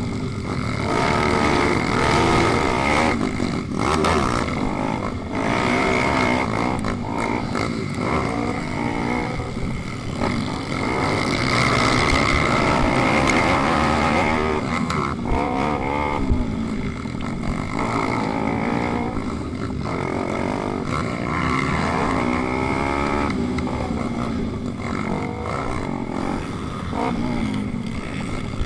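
Pitbike single-cylinder engines racing, their revs rising and falling over and over as the riders accelerate, shift and brake.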